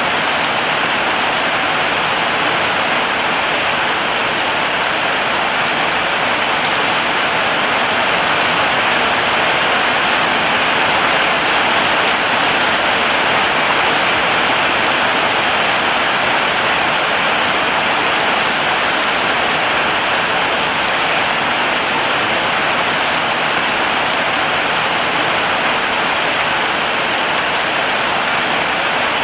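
Heavy rain falling steadily in jungle, a dense even hiss of drops with no separate splashes standing out.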